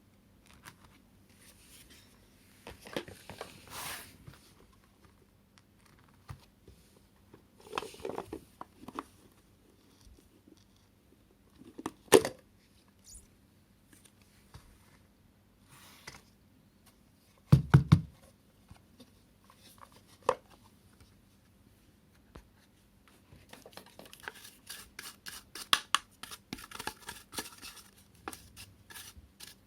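Hands handling the plastic parts of a cordless cyclone vacuum cleaner with its motor off: scattered rustles and clicks, a sharp snap about twelve seconds in, and a heavier knock a few seconds later. Near the end comes a run of quick small clicks and rattles.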